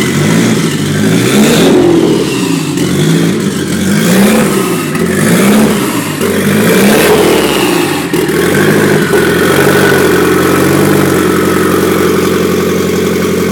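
Nissan SR20 four-cylinder engine on a cold start, revved up and down about once a second, then settling to a steady idle about nine seconds in.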